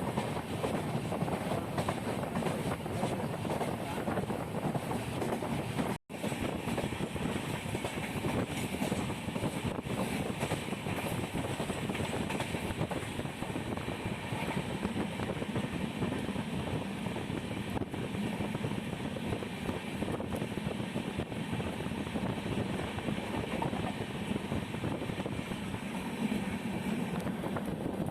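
Steady running noise of a moving passenger train, heard from aboard, with wheel and wind noise. The sound drops out for an instant about six seconds in.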